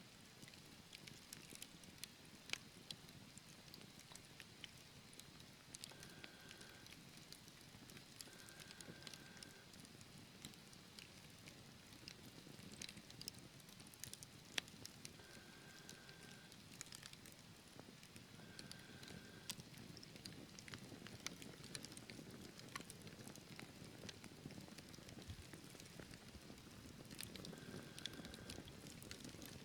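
Wood fire burning in a fireplace: scattered sharp crackles and pops over a soft low rumble of flames, with a short faint whistle-like tone coming back a handful of times.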